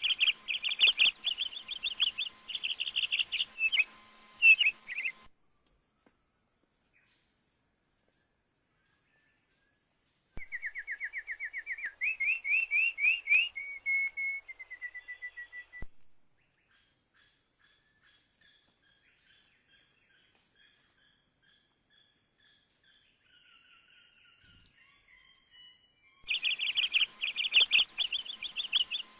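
Songbirds calling: rapid trilled chirps at the start and end, and a run of rising chirps in the middle, over a steady high-pitched insect drone.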